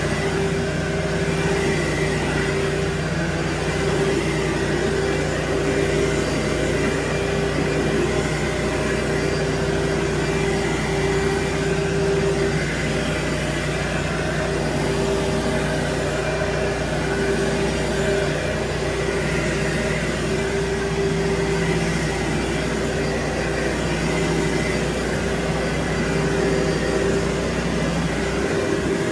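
Carpet-cleaning machine running steadily, a continuous motor drone with a constant hum; the deepest part of the hum cuts out shortly before the end.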